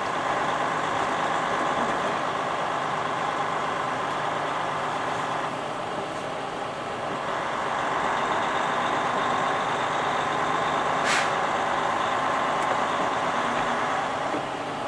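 Semi-truck running, heard from inside the cab as it drives: a steady engine and road noise, with one short sharp high sound about eleven seconds in.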